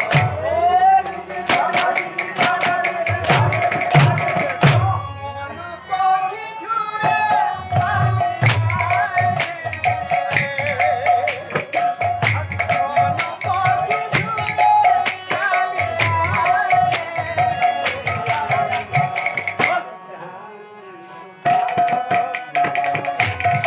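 Kirtan music: small hand cymbals struck in a steady rhythm over drum strokes, with a held melodic line that carries gliding ornaments. The cymbals drop out for a few seconds about five seconds in, and the music goes quieter briefly near the end.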